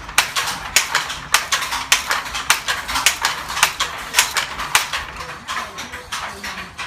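Rapid sharp clicking or clinking, several strikes a second, a little fainter near the end.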